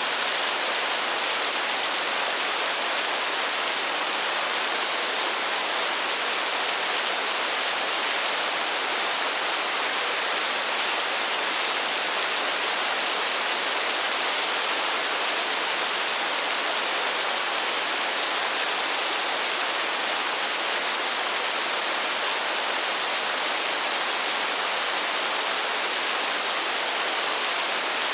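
Steady rainfall: an even, unbroken hiss with no separate drops standing out.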